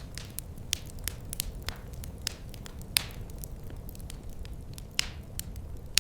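Fire in a fireplace crackling: a steady low rumble with a stream of sharp snaps and pops, two louder pops about halfway through and near the end.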